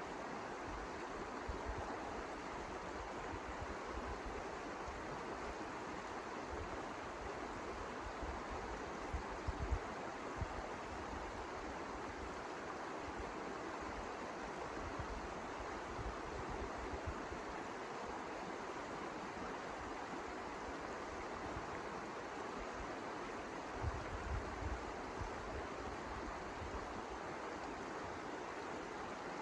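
Steady rushing wind in a snowstorm, with gusts buffeting the microphone as low rumbles about a third of the way in and again near the end.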